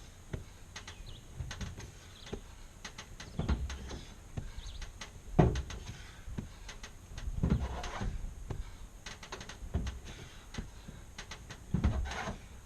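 Thuds and scuffs of a person repeatedly springing up onto a high ledge and dropping back down, a heavy thump every two seconds or so, the loudest about five seconds in.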